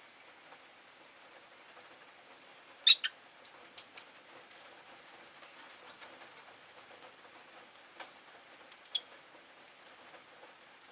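Peach-faced lovebirds giving a few short, sharp chirps, a loud pair about three seconds in and a couple more near the end, over a steady background hiss.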